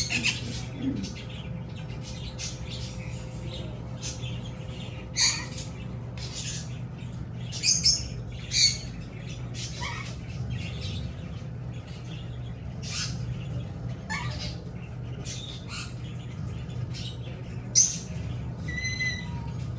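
Parrots squawking and chirping: many short, sharp calls scattered throughout, the loudest about five seconds in, a cluster around eight seconds, and one near the end, over a steady low hum.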